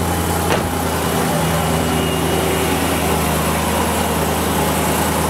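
BMW E92 M3's S65 V8 idling steadily, running again after its failed fuel rail sensor was replaced. A single sharp knock about half a second in.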